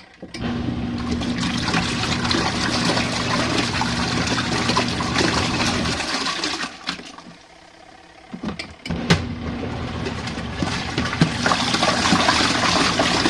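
Small portable washing machine agitating a load in warm water: the motor hums and water churns in the tub. The agitation stops about six seconds in, a few clicks follow, and it starts up again about nine seconds in.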